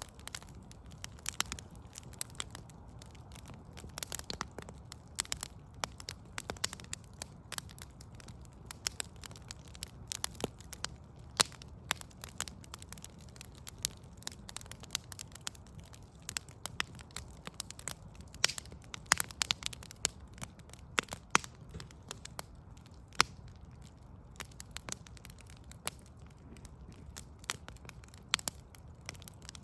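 Wood fire of burning logs crackling, with irregular sharp pops, several a second and some much louder than others, over a low steady rumble.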